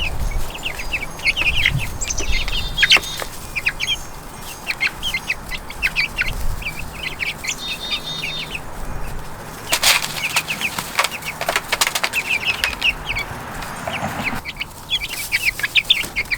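Backyard chickens clucking in many short, quick calls, with a few brief rustling bursts.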